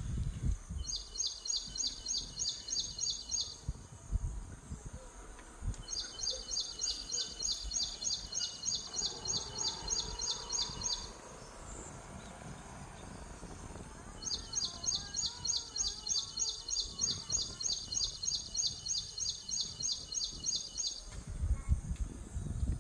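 A bird calling in long runs of rapid, high, evenly repeated chirps, about four a second, in three bouts each several seconds long. Low rumbling thumps sound underneath.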